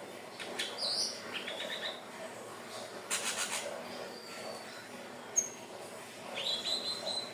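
Indigo flycatcher (sikatan ninon) singing in short, high-pitched phrases of thin whistles and quick trills. There is a brief raspy burst about three seconds in and a single sharp click a little after five seconds.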